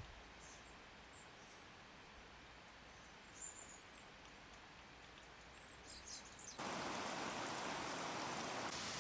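Quiet outdoor ambience with a few faint, brief bird chirps. About two-thirds of the way through, a steady hiss cuts in abruptly and becomes the loudest sound.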